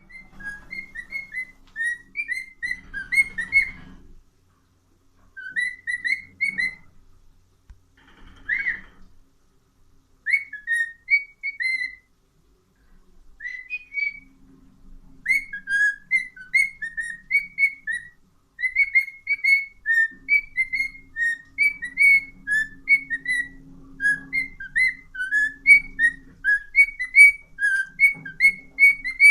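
Cockatiel whistling its song in quick, chirpy notes. The notes come in short phrases broken by pauses of a second or two, then run on without a break through the second half.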